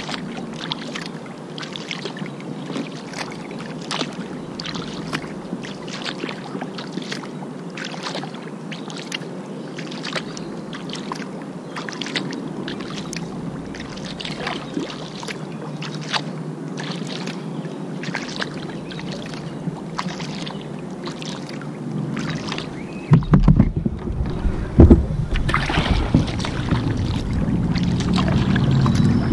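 Kayak paddle strokes, the blades dipping and dripping in a regular rhythm of a little over one stroke a second over steady water noise. About 23 seconds in, a low rumble and a few loud knocks take over.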